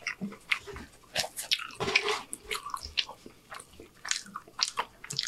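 A person chewing a mouthful of food close to the microphone: irregular short mouth clicks and smacks.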